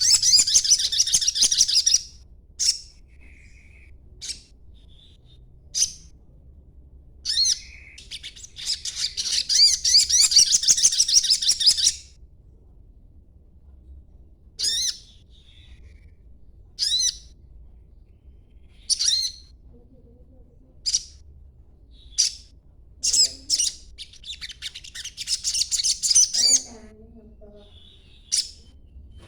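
A young sogon songbird with green plumage twitters in long, rapid, high-pitched runs. It breaks off into sharp single chirps every second or two between the runs.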